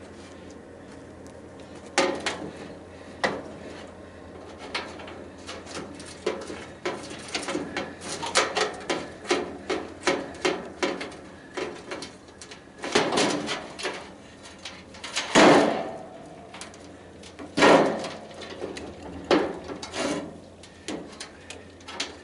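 Hand tools and sheet-metal parts of a tanning bed clicking, tapping and clanking as it is taken apart. It is a scatter of quick clicks and knocks that grows busier in the middle, with a few louder clanks in the second half.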